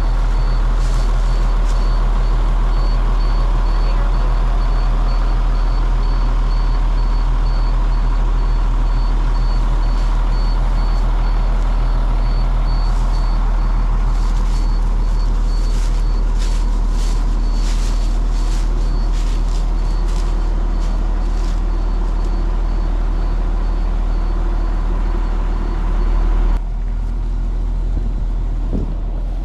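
A heavy vehicle engine running steadily with a deep low hum, and a high-pitched beep repeating several times a second over it. A run of clicks and rattles comes through the middle, and the engine sound cuts off abruptly near the end.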